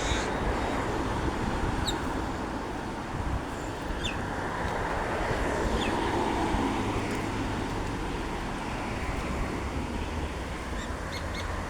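Steady rumble of road traffic, swelling slightly midway, with a few short high chirps from birds scattered through.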